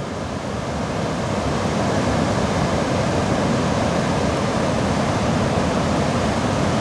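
Steady rushing of the Potomac River's whitewater falls running high and turbulent, growing a little louder in the first couple of seconds and then holding even.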